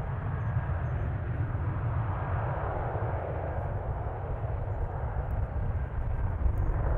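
Jet airliner engine noise: a steady rumble with no breaks.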